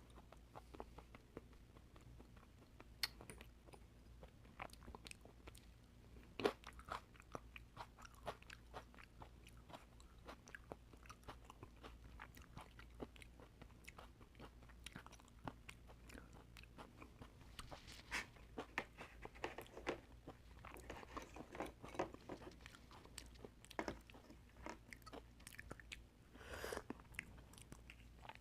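Close-miked eating of oysters: soft wet chewing with many small, sharp mouth clicks, a few louder ones scattered throughout.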